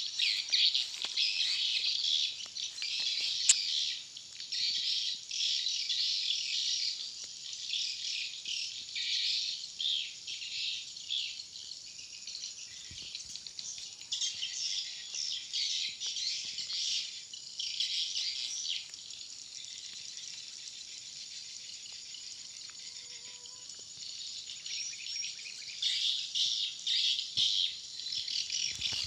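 Swiftlets twittering in a dense, continuous chatter of high, rapid chirps, thinning out for a few seconds past the middle and growing stronger again near the end.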